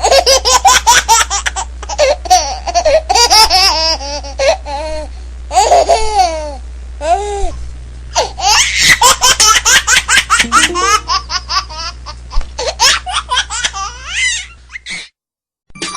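High-pitched laughter in long, rapid fits of rising and falling 'ha' sounds, with a steady low hum underneath. It cuts off suddenly near the end.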